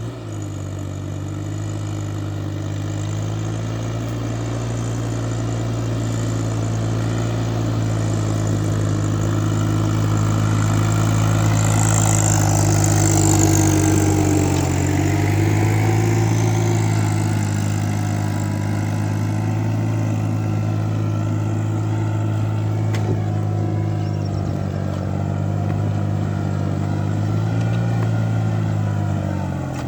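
Farmtrac Atom 26 compact tractor's diesel engine running steadily under load while pulling a plough, its pitch sagging briefly about halfway through and again near the end.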